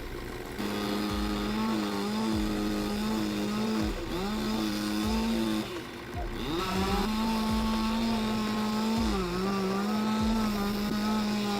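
Chainsaw engine running at high revs, its pitch dipping and recovering a few times as it bogs down in the cut.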